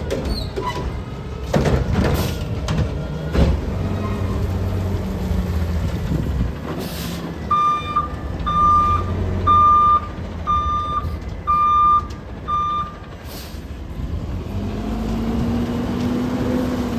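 Recycling garbage truck's diesel engine running, with a few clanks early on and a short hiss of air. About halfway through, its reversing alarm beeps six times, roughly once a second, and near the end the engine revs up with a rising pitch.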